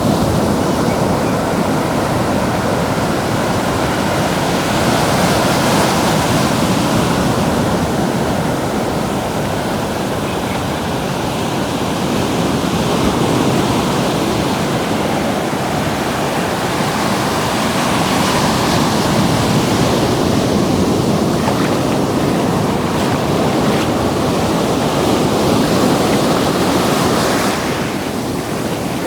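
Ocean surf washing in and out at the water's edge, a steady rush that swells and eases as waves come in, with wind on the microphone.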